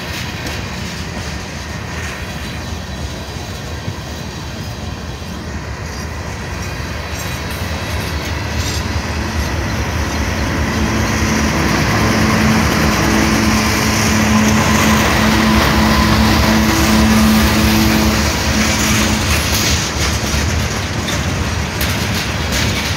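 CSX manifest freight train rolling past close by, its steel wheels clattering over the rail joints. About ten seconds in, a diesel locomotive within the train passes, and its engine drone rises to the loudest point before easing as more freight cars follow.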